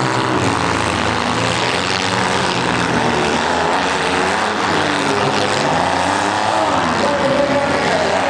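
Several compact-car engines revving hard together, their pitches rising and falling, in a loud, steady roar.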